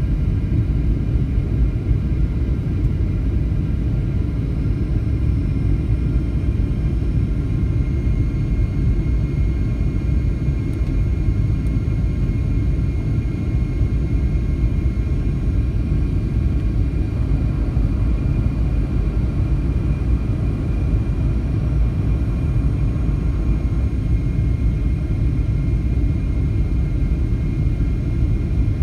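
Airliner jet engines and airflow heard inside the passenger cabin during the descent to land: a steady low rumble with a faint steady whine above it.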